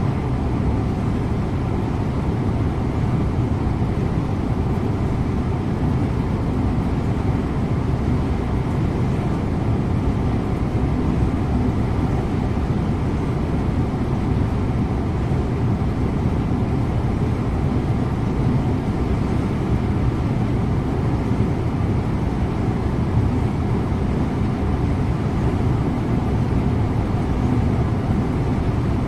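Scania InterLink bus driving at a steady speed: a constant low rumble of engine and tyre noise with no change in pitch or level.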